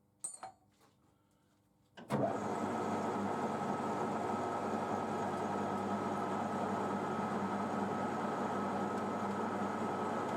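A few light clicks, then about two seconds in a machine's motor switches on and comes straight up to speed, running on with a steady, even hum.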